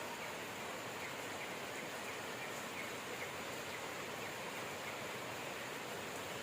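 Steady rain falling, with faint bird chirps in the background.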